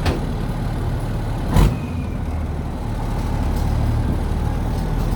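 Engine of a 5-ton truck running steadily. A loud thump about a second and a half in.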